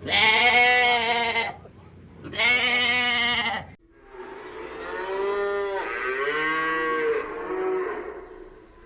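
Farm animals calling: two loud calls of about a second and a half each, then an abrupt cut to a longer, wavering call lasting several seconds.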